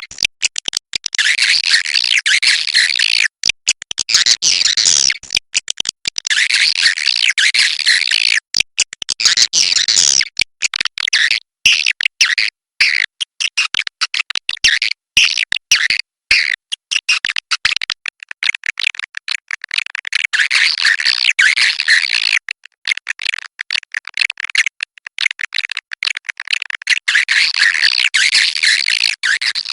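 Swiftlets twittering and chattering in dense high bouts of a few seconds with short breaks between them: a 'walet inap' swiftlet call recording of the kind played in swiftlet houses to lure the birds in to roost.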